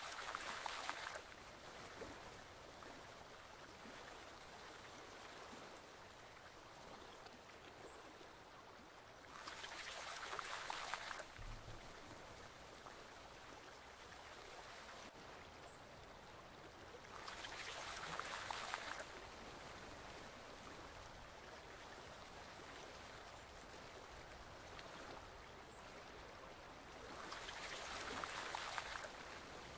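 Forest stream flowing steadily, with a louder surge of splashing water about every nine seconds.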